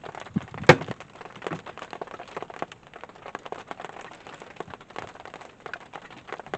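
Rain pattering on a surface in dense, irregular drops, with one sharp knock a little under a second in.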